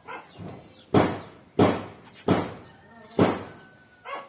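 Four heavy knocks, irregularly spaced, each dying away quickly.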